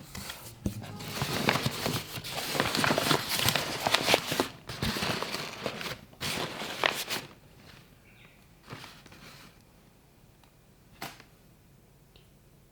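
Busy rustling and clicking, as of things being handled and moved about, for about seven seconds, then a few single soft clicks.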